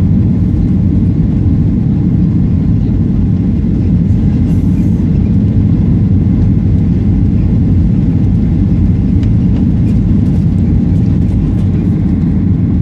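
Airliner cabin noise: a loud, steady low rumble of engines and airflow heard from inside the passenger cabin.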